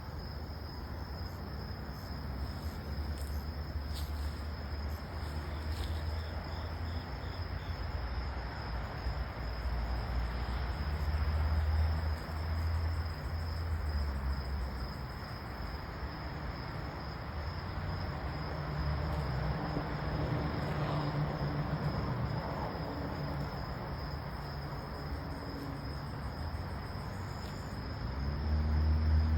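Insects trilling steadily in one high, unbroken tone, over a low rumble that swells and fades.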